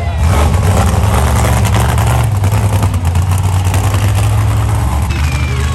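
Monster truck engine running steadily at low revs, with a deep, even note that shifts slightly in pitch about two seconds in.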